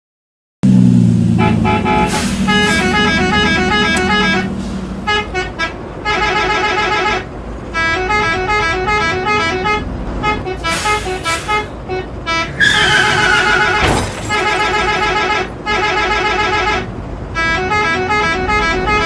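Bus 'telolet' horn, a multi-tone musical horn, tooting quick melodies in short phrases that stop and start again. An engine rumbles underneath for the first few seconds, and about two-thirds of the way through a higher tone slides downward.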